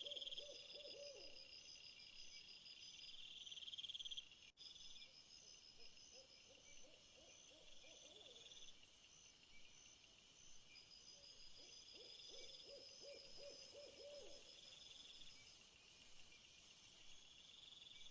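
Faint outdoor insect chorus of pulsed, high trills with a steady high buzz. Three times a low animal call sounds as a quick run of repeated notes, each run lasting about a second and a half.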